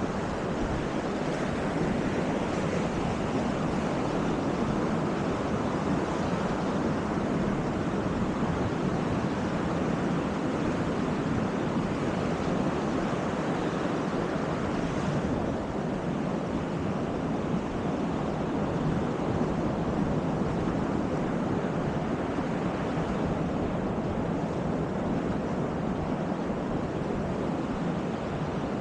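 Baltic Sea surf washing steadily onto the beach, with wind on the microphone.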